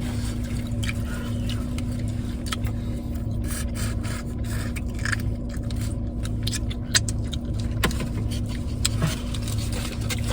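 Steady hum of a car heard from inside the cabin, with scattered light clicks and rustling on top.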